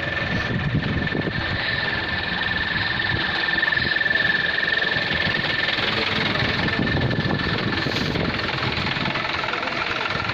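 Truck engine running steadily, with a thin steady high tone over it that drops a little lower near the end.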